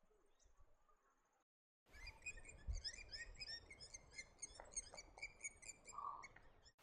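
Ambient chorus of small birds, many quick high chirps and twitters overlapping, starting suddenly about two seconds in after a faint high trill and a brief silence.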